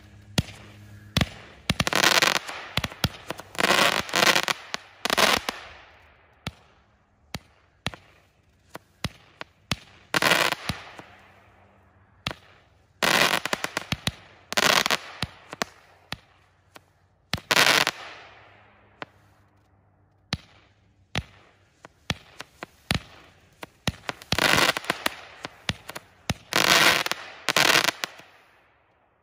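A 36-shot consumer fireworks cake firing, shot after shot: dozens of sharp reports from launches and bursting shells. Every few seconds comes a longer, noisier burst lasting about a second. The last shots die away near the end.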